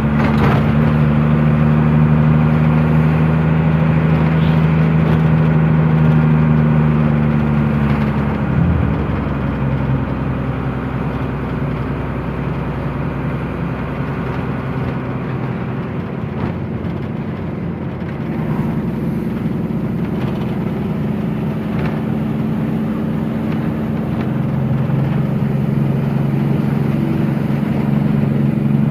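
Truck engine running steadily while the truck is driven. The engine note drops about eight seconds in and climbs back near the end.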